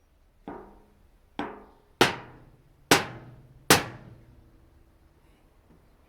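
Hammer striking a flathead screwdriver against a thin metal rice-cracker tin to punch holes in it. Five blows, each harder than the last, each with a brief metallic ring.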